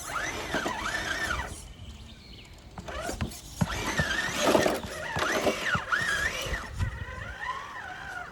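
1/10-scale RC rock crawler's electric motor and gear drivetrain whining, the pitch rising and falling over and over as the throttle is worked. It comes in two spells with a quieter pause around two seconds in.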